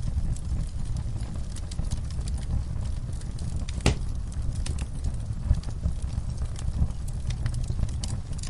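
Wood fire burning in a fireplace: a steady low rumble of flames with scattered crackles and one sharp pop about four seconds in.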